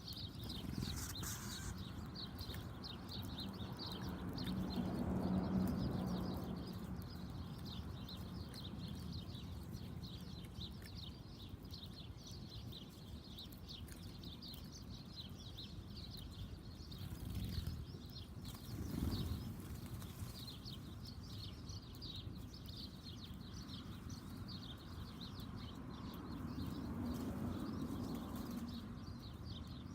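Backyard ambience with small birds chirping rapidly and steadily in high voices. A low rumble swells up a few times: about five seconds in, again about two-thirds through, and near the end.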